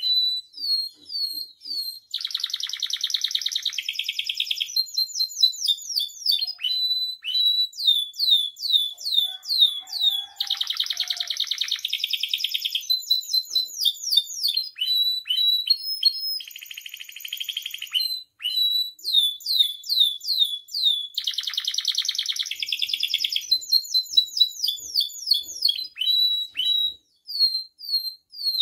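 Domestic canary singing in full song: quick strings of high, falling chirps. The chirps break three times into long, rapid buzzy rolls of about two seconds each.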